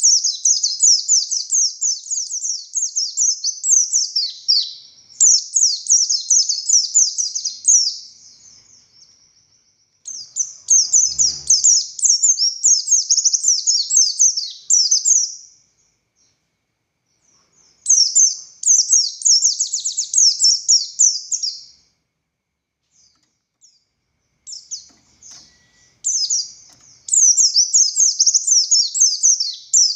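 Pleci buxtoni white-eye singing a fast, high, chattering song of rapidly repeated notes, delivered in four or five long phrases with short pauses between them.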